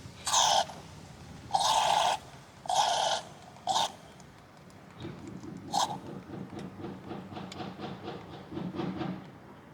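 Honda CB1100SF X11 engine giving short, loud squeals, four in quick succession and one more about six seconds in, then a quieter low rhythmic pulsing. The squeal comes from the water pump.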